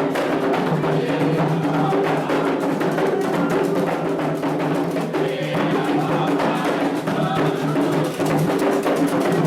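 Candomblé atabaque drums and a struck bell playing a steady, continuous toque, the rhythm for the orixá Logun Edé.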